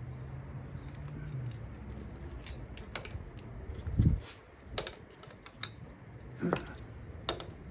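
Scattered sharp plastic-and-metal clicks with a dull knock about four seconds in, from hands and tools working on the engine's ignition coils and their plug connectors.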